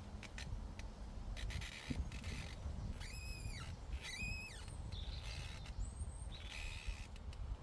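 A bird gives two matching high calls, each about half a second long and about a second apart, followed by a brief high chirp, over a low rumble of breeze on the microphone.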